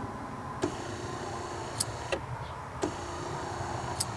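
1998 Corvette C5's replacement wiper motor running on the intermittent setting: short runs of motor hum, each begun with a sharp click, with pauses between. The motor is running smoothly.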